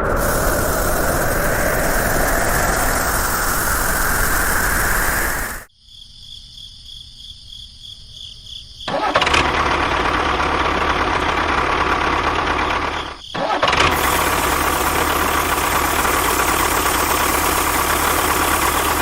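Motor of a home-made miniature tractor or bulldozer running loudly, with a slowly rising whine. It cuts out after about five seconds, leaving a faint high whine for about three seconds, then starts again, dipping briefly near the middle before running on steadily.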